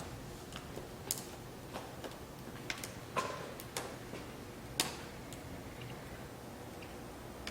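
A series of irregular sharp clicks and light knocks, spaced roughly half a second to a second apart, over a steady low background.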